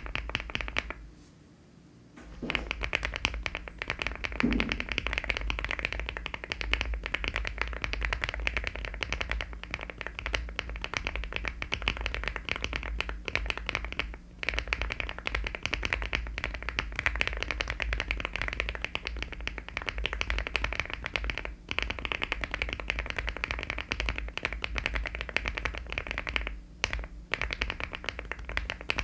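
Fast, continuous typing on a LEOBOG Hi75 aluminium mechanical keyboard fitted with HMX switches and Cherry-profile keycaps. It stops briefly about a second in, then runs on with a few short breaks.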